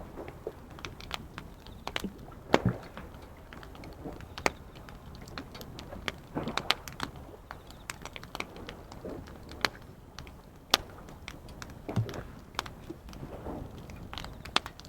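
Wood fire crackling, with irregular sharp pops of uneven strength; the loudest come about two and a half seconds in and again near the eleventh second. A low steady rush of sea waves lies underneath.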